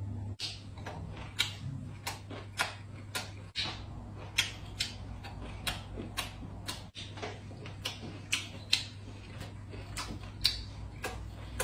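A person chewing with the mouth close to the microphone: short wet clicks and smacks about two a second, over a steady low hum.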